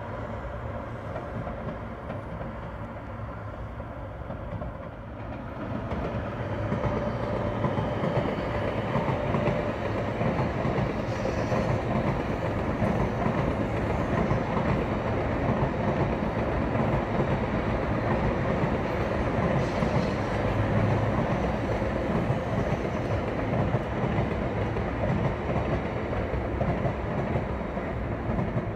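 A train rolling past on the tracks: a steady rumble of wheels on rails that grows louder about five or six seconds in and holds.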